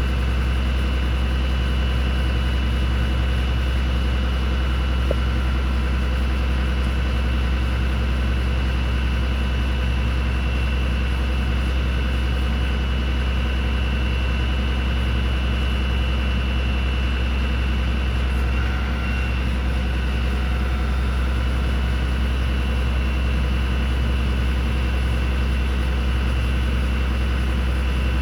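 Cummins ISB 6.7-litre turbo diesel of a Ford F750 bucket truck idling steadily, a deep even hum with a faint steady high whine over it.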